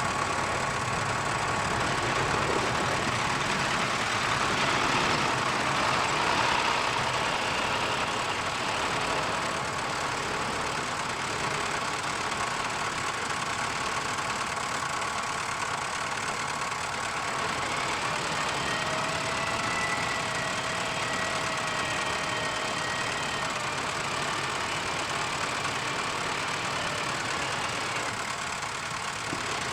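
Heavy earthmoving machinery's engine running steadily, with a thin whine for a few seconds past the middle.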